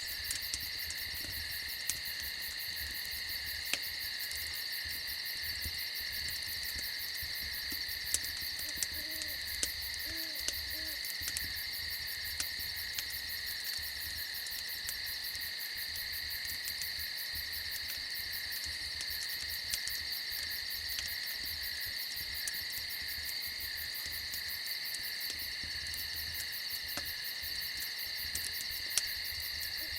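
Crickets chirring in a steady chorus, with an owl hooting a few times about a third of the way in and scattered sharp pops of a crackling campfire.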